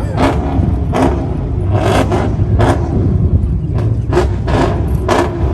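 Car engine running with a steady, deep exhaust rumble, broken by a series of brief sharp sounds spaced irregularly.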